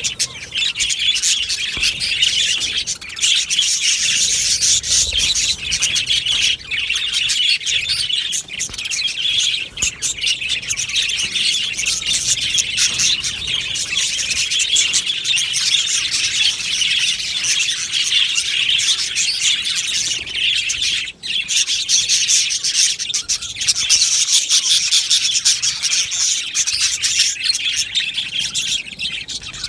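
A colony of budgerigars (budgies) chattering and chirping together, a dense, continuous warbling of many birds at once.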